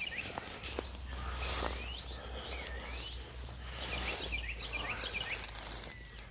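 A songbird singing outdoors: a couple of single swooping notes, then a quick phrase of chirping notes about four seconds in, over a steady low rumble.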